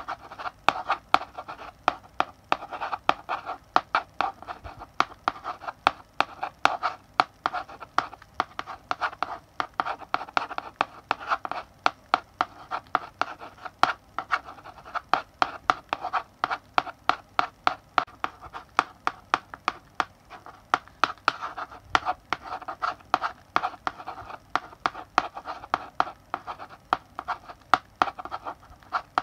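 Chalk writing on a blackboard: quick, irregular taps and short scratching strokes as letters are written, with brief pauses between words.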